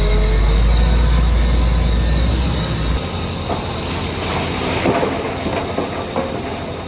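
Heavy earthmoving machinery: a deep engine rumble that cuts off about three seconds in, followed by a hiss and a run of irregular metallic clanks and knocks.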